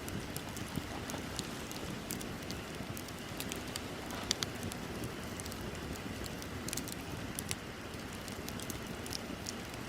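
Wood bonfire crackling, with scattered sharp pops over a steady low rush of burning.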